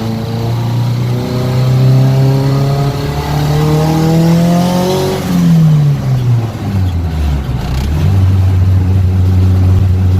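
Turbocharged Honda Civic EG hatchback engine pulling hard under acceleration, its pitch climbing steadily for about five seconds. The revs then drop away over a couple of seconds and settle into a steady, lower drone.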